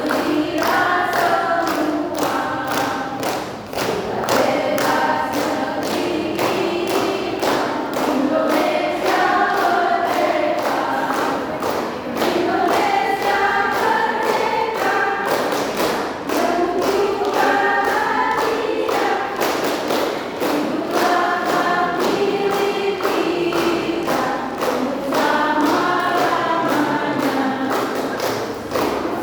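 Choir singing a song in parts, with a steady thumping beat running under the voices.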